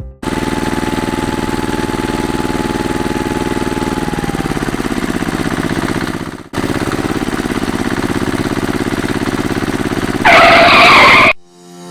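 A small engine running steadily with a fast pulsing note. It shifts pitch about four seconds in and cuts out briefly a little past halfway. A loud, harsh hiss lasting about a second comes near the end.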